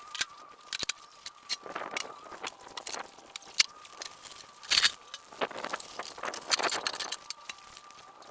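Irregular scrapes, knocks and crunches of hands-on handling work, with a louder scrape about five seconds in, over a faint steady high whine.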